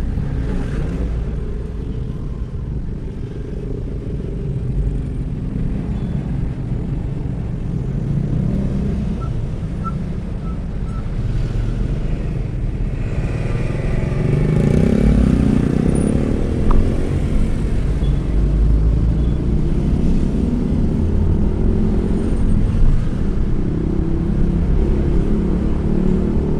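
Steady road-vehicle rumble of engines and traffic, with one vehicle's engine swelling louder as it passes about halfway through.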